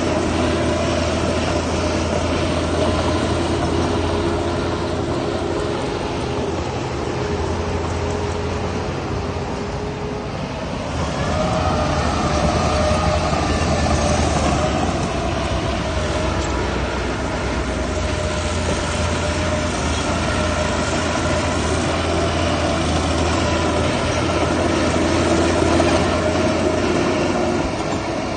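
Heavy diesel machinery running steadily: a deep engine drone with whining tones that drift in pitch, easing a little about ten seconds in and picking up again soon after.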